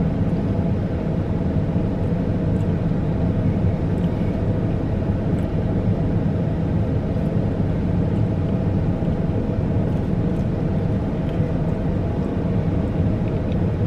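Steady low rumble of an idling vehicle engine, even in level throughout, with a few faint light clicks.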